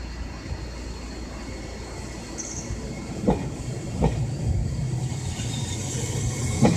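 Iyotetsu 3000-series electric train pulling away from the platform: a low steady hum, then from about three seconds in the wheels knock over rail joints, getting louder as it gathers speed.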